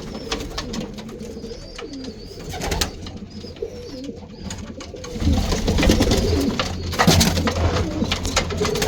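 Roller pigeons cooing in a loft, with scattered clicks and rustles; the cooing gets louder and busier about five seconds in.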